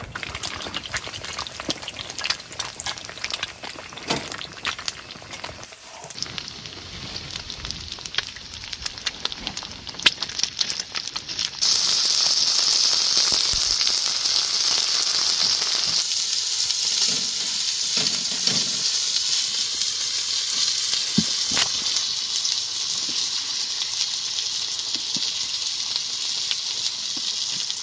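Food frying in a pan: light crackling with scattered pops, then a louder, steady sizzle that starts suddenly about 12 seconds in.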